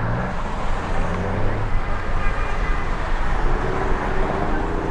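Road traffic noise: vehicles running on a road, a steady, dense rumble.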